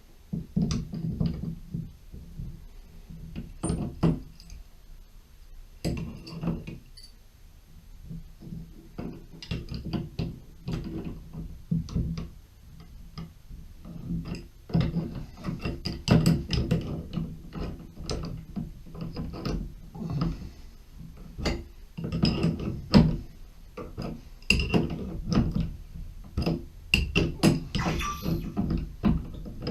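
Irregular knocks, clicks and clinks of tools and valve parts being handled at a Mixet tub and shower valve during cartridge replacement, some strokes sharp and loud, others faint.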